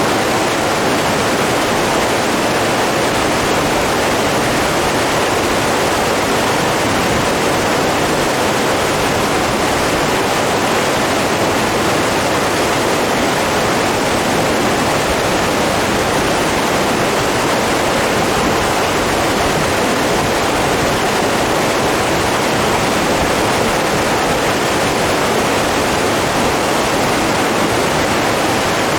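Steady, continuous rush of running water, like a stream or small waterfall, with no change in level.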